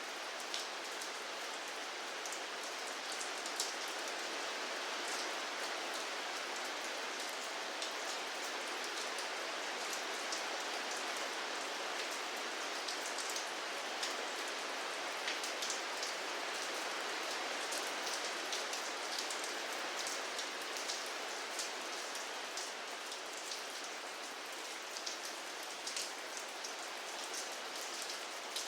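Steady rain falling, an even hiss with the ticks of separate drops hitting a surface scattered through it.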